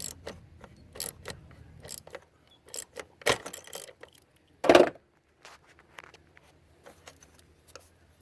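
Irregular metallic clicks and clinks of a 10 mm socket wrench tightening the bolt that holds a new engine purge valve in place. The loudest clank comes a little under five seconds in.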